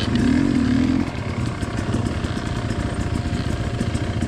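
Dirt bike engine running while riding on a trail, louder for about the first second and then steady.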